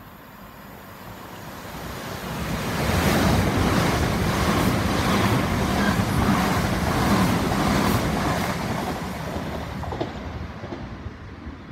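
Great Northern electric multiple-unit passenger train running through the station without stopping: a rushing noise that builds, peaks with a rapid clatter of wheels over the rails as the carriages pass close by, then fades as the train draws away.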